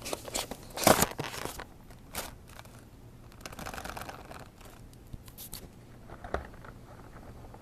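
Cardboard and plastic packaging being handled and pulled apart: rustling, crinkling and scraping in irregular bursts, the loudest about a second in.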